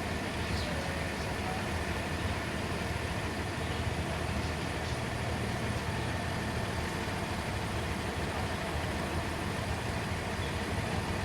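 Heavy work truck engine running steadily, a low continuous hum.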